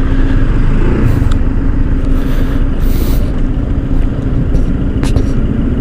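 Honda ADV 160 scooter's single-cylinder engine running with a steady hum, under heavy wind rumble on the microphone.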